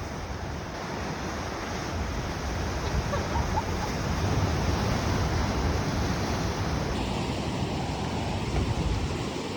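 Sea waves surging against the rocky shore below the cliffs, a steady wash that swells about three seconds in, with wind buffeting the microphone.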